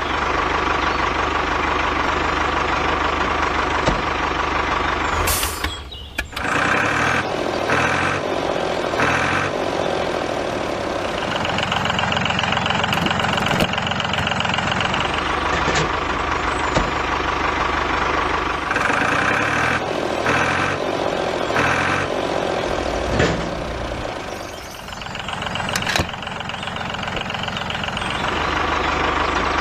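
A vehicle engine running steadily. A pattern of high beeps like a reversing alarm comes back every six or seven seconds, and the sound drops out briefly about six seconds in.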